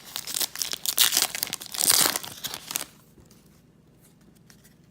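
A foil trading-card pack wrapper being torn open and crinkled, with dense crackling for about three seconds, stopping near the middle.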